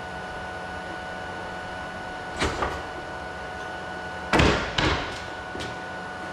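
Knocks, two quick ones and then a louder pair a couple of seconds later, over a steady machine hum with a few whining tones.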